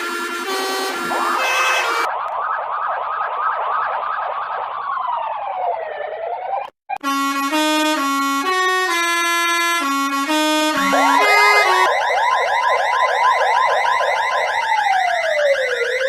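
Electronic police-car siren in a fast yelp, about three rising-and-falling whoops a second, ending in a slow downward-and-back-up sweep. It cuts off briefly for a stepped melody of horn-like tones, then the yelp returns with a higher layered copy and again ends in a slow sweep.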